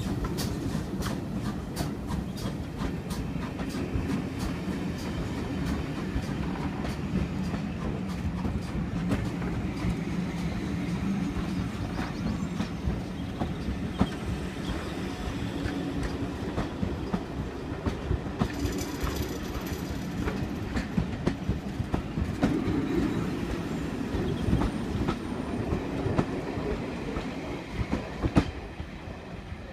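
Heritage steam railway train running along the track, its wheels clicking over the rail joints above a steady rumble, with a brief high wheel squeal about two-thirds of the way through.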